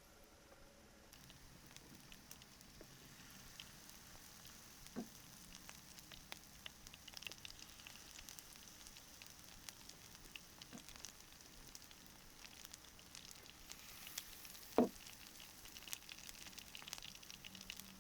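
Food frying in hot oil, a steady faint sizzle with small crackles, and a few knocks, the loudest about fifteen seconds in.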